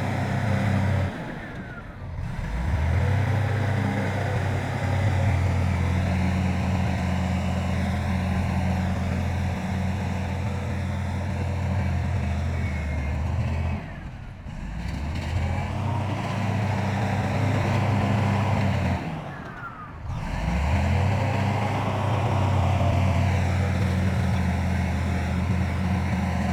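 Diesel engine of heavy earthmoving machinery running steadily at a constant pitch. Three times it drops away briefly and picks up again.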